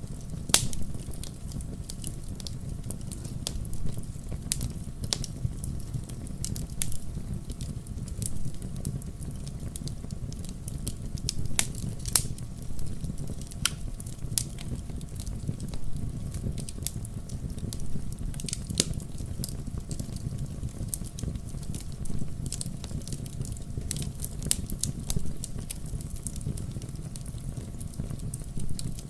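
Wood campfire burning, with sharp crackles and pops at irregular intervals over a steady low rumble of the flames.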